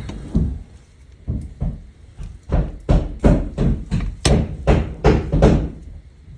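A run of about nine sharp knocks or thuds, a little under three a second, starting about two and a half seconds in and stopping shortly before the end, after a few scattered knocks earlier.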